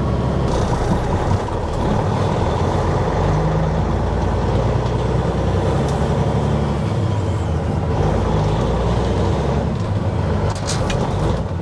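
Dump truck's diesel engine running and pulling as the truck drives, heard from inside the cab, with a few clicks near the end.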